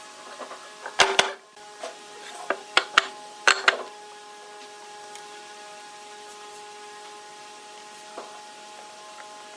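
A handful of sharp knocks and clicks in the first few seconds, over a steady hum that carries on after them.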